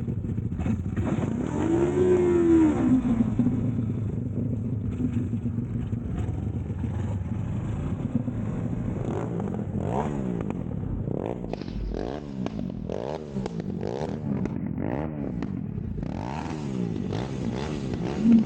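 Motorcycle engines running hard, the note rising and falling as they rev through the gears, with a run of quick swooping rises and falls in the second half.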